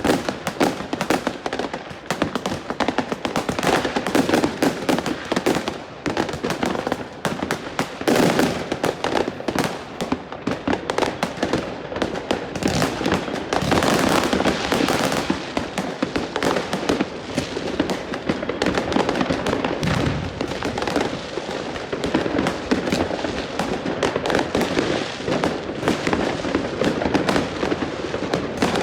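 New Year's Eve street fireworks: a dense, continuous barrage of firecracker bangs and crackling explosions, many overlapping with no pause.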